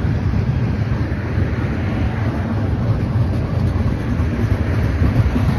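Tank cars of a CN freight train rolling past: a steady low rumble of steel wheels on the rails.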